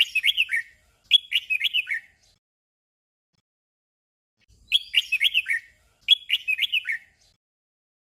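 Red-whiskered bulbul singing its short warbled phrase twice in quick succession (the 'double' song), then repeating the doubled phrase about four seconds later.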